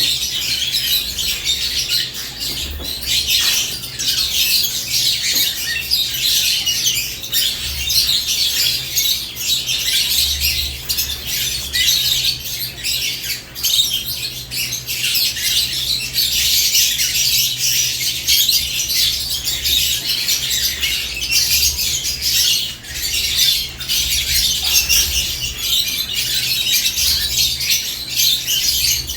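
Caged lovebirds chattering continuously, with many high-pitched chirps and squawks overlapping, over a faint steady low hum.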